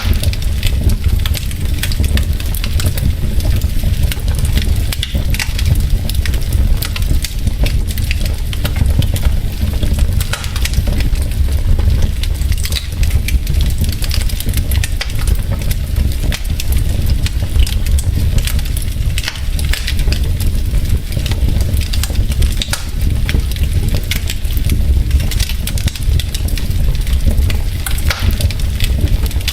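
Wood logs burning in a fireplace, crackling and popping irregularly over a steady low rumble.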